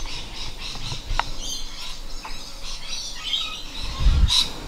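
Small birds chirping and calling over and over, with one louder call about four seconds in.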